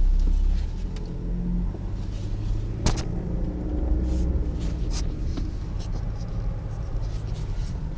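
Car driving over a rough road, a steady low rumble with sharp knocks about 3 and 5 seconds in as the car jolts over the bumps.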